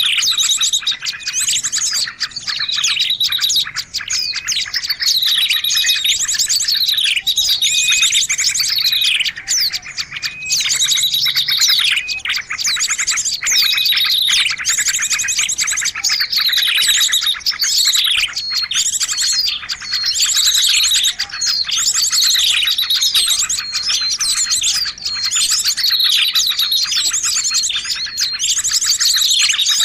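Bird-lure recording of a noisy, dense chorus of small birds, chirping continuously. It is loud and unbroken, with sharp downward-sliding calls repeating every second or two over rapid buzzy trills.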